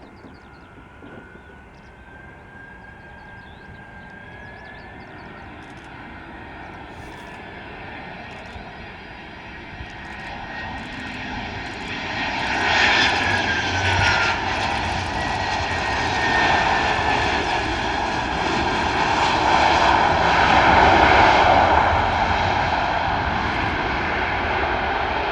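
Jet airliner passing close by, its engines growing from a distant rumble to a loud roar about halfway in, with a turbine whine that falls in pitch as it goes by.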